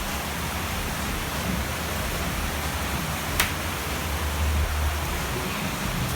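Steady rain, with a single sharp click about three and a half seconds in.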